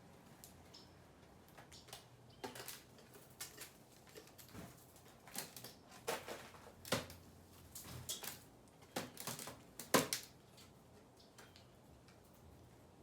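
Birds feeding at a feeder: irregular light taps and clicks, scattered over several seconds, the loudest about ten seconds in.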